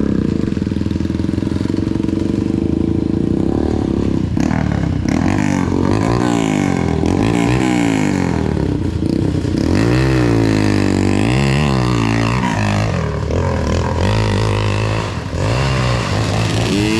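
Dirt bike engine running under a rider: steady for the first few seconds, then revving up and down again and again as the throttle opens and closes.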